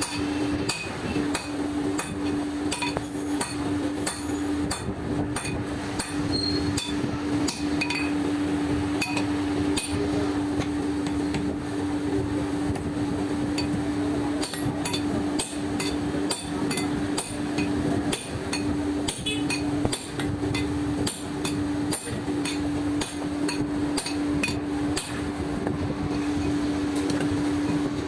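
Hammer striking metal repeatedly at an uneven pace, part of the shaft repair on a heavy-duty air impact gun. A steady hum runs underneath throughout.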